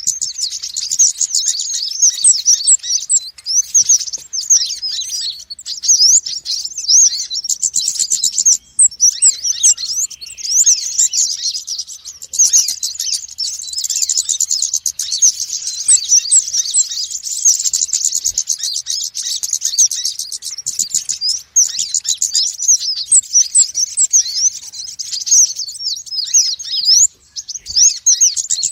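Konin and wulung, small songbirds, chattering noisily in a dense, unbroken stream of rapid high chirps and trills, with a few brief pauses. It is a lure recording used to draw small birds in for trapping.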